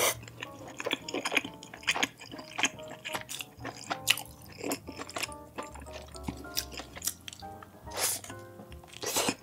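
Close-miked chewing with crunchy bites of food, a crunch every second or so with the loudest ones near the end, over light background music.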